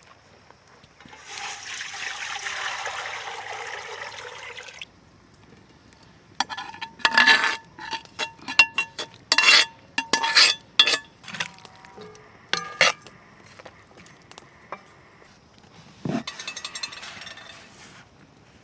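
A pour lasting about four seconds, then a run of a dozen or so sharp, ringing clinks of dishes and utensils knocking together, with two fainter clinks near the end.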